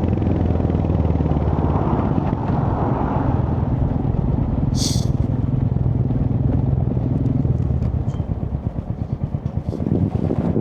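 Royal Enfield Hunter 350 single-cylinder engine running steadily as the bike slows, then settling to a pulsing idle about eight seconds in. A brief hiss about five seconds in.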